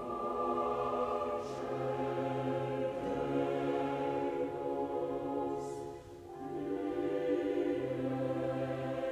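Choral-sounding music: voices holding long sustained chords over a steady low note, the chords changing every few seconds, with a brief drop in level about six seconds in.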